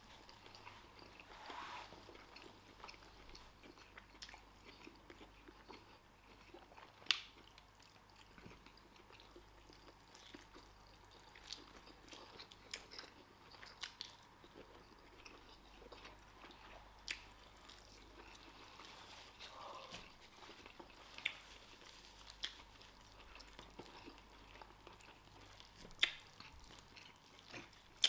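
Faint chewing and eating sounds of people eating rice, stew, fried plantain and chicken, with a few short sharp clicks scattered through, the loudest two about a quarter of the way in and near the end.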